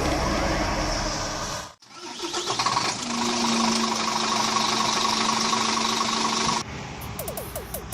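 Scania R410 truck's natural-gas engine running steadily, with a held hum in it. The sound breaks off briefly about two seconds in, then cuts to something quieter near the end.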